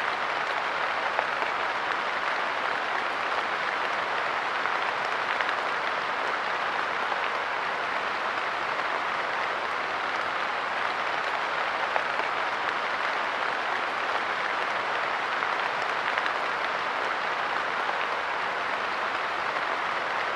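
Steady light rain pattering on a park bench, an even hiss with a few slightly louder drops.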